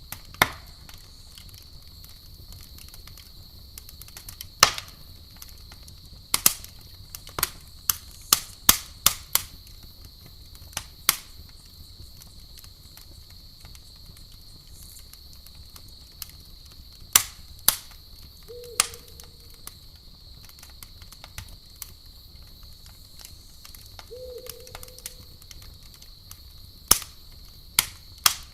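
Campfire crackling: sharp pops and snaps at irregular intervals, some in quick clusters, over a steady high-pitched drone. Two short low calls come in, about two-thirds of the way through and again a few seconds later.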